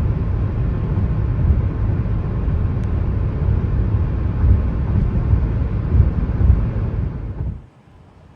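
Gusty wind buffeting the microphone: a loud low rumble that swells in irregular gusts, cutting off sharply about seven and a half seconds in.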